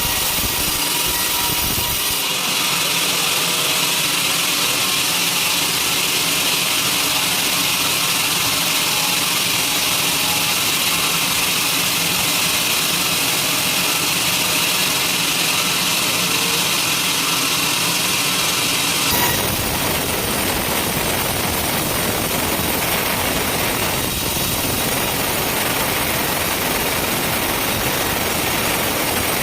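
Sawmill machinery running loudly and steadily. A strong high hiss runs from about two seconds in to about two-thirds of the way through, then gives way to a broader, lower machine noise.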